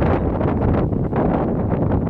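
Wind buffeting the microphone: a loud, rough, steady rumble that swells and dips with the gusts.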